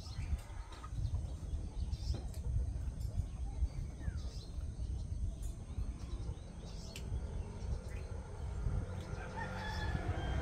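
Birds calling outdoors: several short high chirps and a faint longer call, over a steady low rumble.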